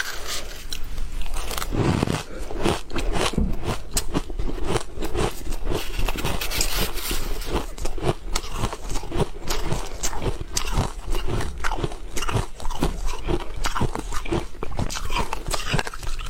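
Ice being bitten and chewed, close to the microphone: a dense, irregular run of sharp cracks and crunches.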